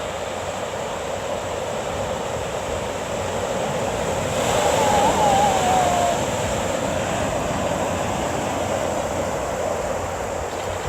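Small waves washing onto the shore with wind on the microphone. A wave swells louder about four to six seconds in, with a faint wavering cry over it.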